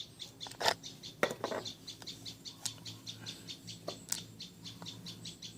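Rapid, even chirping at about five chirps a second, with a few sharp clicks and knocks over it, the loudest about a second in.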